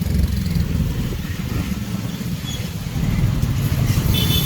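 Street traffic noise with motorcycles and tricycles running, heard from a moving bicycle sidecar, as a steady low rumble.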